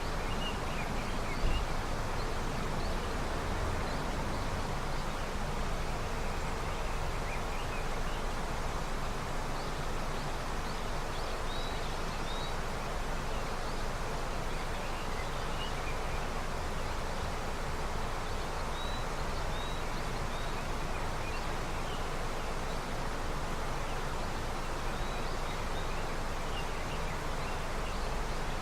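A river running high with snowmelt, its water rushing steadily. Small birds chirp briefly now and then over it, and there is one low bump about a second and a half in.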